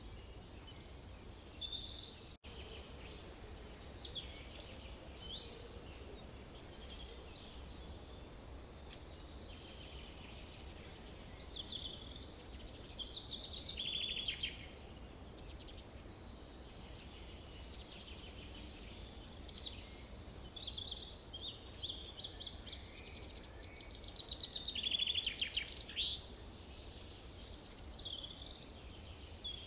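Forest ambience with several birds singing and calling, many short chirps and whistles overlapping, over a steady low background rumble. Twice, about midway and again near the end, a bird gives a loud fast trill. The sound drops out for an instant a couple of seconds in.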